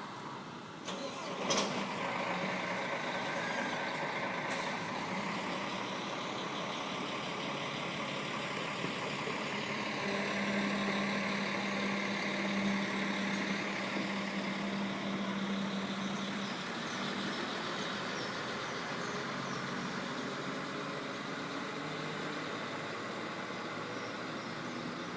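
Diesel engine of an IDBUS coach idling steadily, left running instead of being switched off, with a sharp click about a second and a half in. The low hum grows stronger for a few seconds in the middle.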